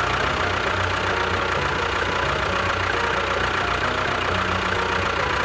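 An engine idling steadily at an even pitch, just after being started.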